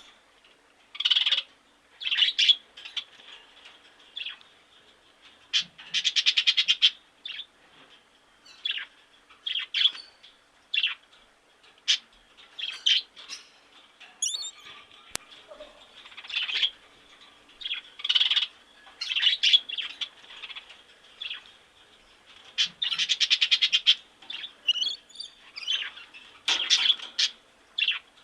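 Birds calling: a run of short, separate calls and chirps every second or so, with a couple of rapid rattling calls about a second long, around a quarter of the way in and again past the three-quarter mark.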